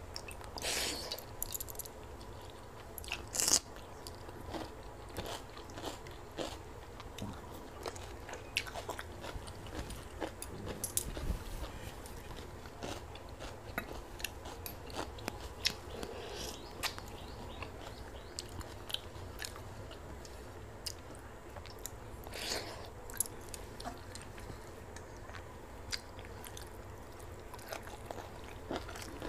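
Close-up mouth sounds of a person eating pakhala (rice soaked in fermented water) by hand: chewing and crunching with many scattered small clicks, and a louder crunching bite about three and a half seconds in.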